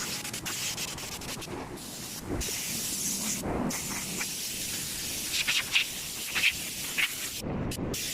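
Spraying hiss over a rough, even noise, with several short, sharp spurts of spray in the second half.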